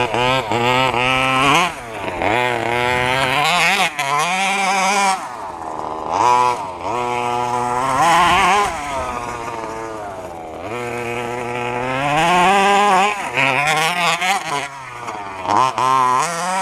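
Large-scale FG stadium truck's small two-stroke petrol engine revving up and down repeatedly as the truck is driven, its pitch rising and falling every second or two.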